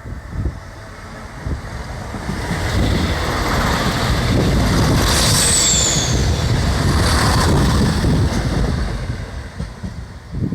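A train passing over a level crossing: its rumble swells, holds for a few seconds and fades away, with a brief high squeal falling in pitch midway. Wind buffets the microphone.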